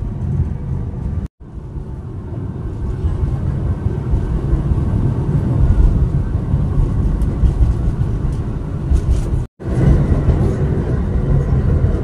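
Alishan mountain railway train running, heard from inside the passenger carriage: a steady low rumble and rattle of the wheels and car. The sound cuts out abruptly twice, about a second in and again about nine and a half seconds in.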